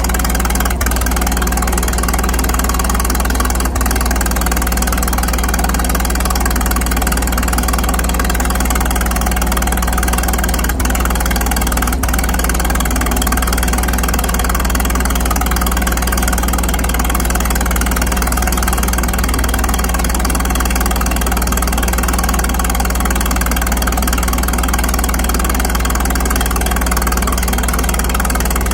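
Antique tractor engine running steadily at a low, even speed.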